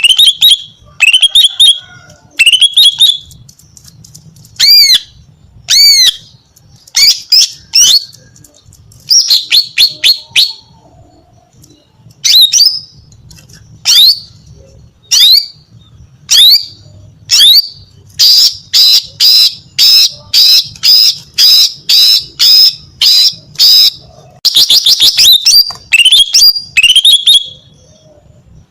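Female green leafbird (cucak ijo) calling, a call used to draw males: loud, sharp chirps and short down-sweeping whistled notes in separate groups, with a fast, even run of about two notes a second in the middle.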